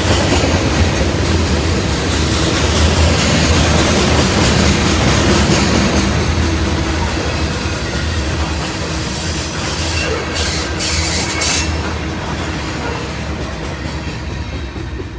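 A train passing, its rail cars' wheels running over the track in a steady loud rush of noise that fades gradually over the last few seconds.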